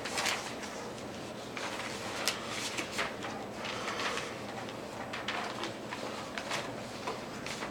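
A pen scratching out a drawing in many short, irregular strokes, with a few light taps.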